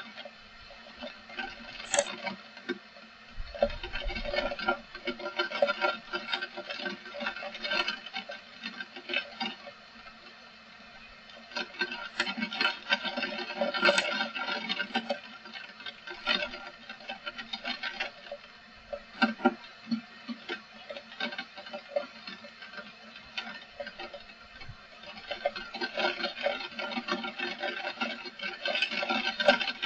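Rain pattering and dripping in irregular ticks that swell and ease off in waves, with a brief low rumble about four seconds in.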